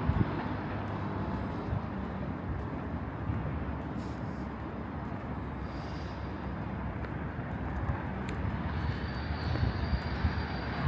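Steady low rumble of outdoor city noise, with no single event standing out.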